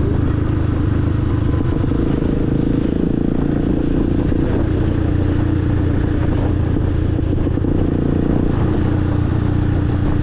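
Motorcycle engine running at a fairly steady pitch while riding.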